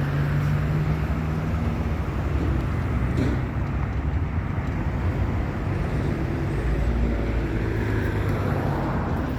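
Steady freeway traffic noise: vehicles driving past with a low engine hum.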